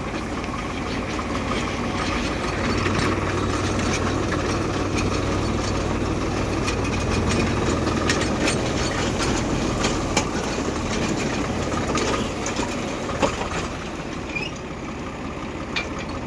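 Tractor engine running steadily with a low hum, with scattered clicks and clatter over it.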